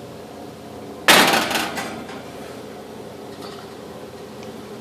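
A baking dish of chicken set into a hot oven: one sharp clatter of dish against oven rack about a second in, dying away over most of a second.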